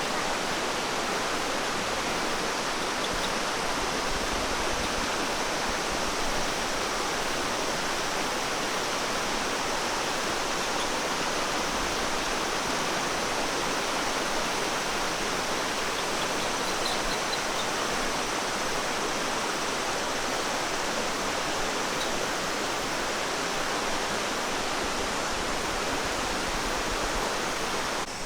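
Rushing water, a steady unbroken hiss that does not change.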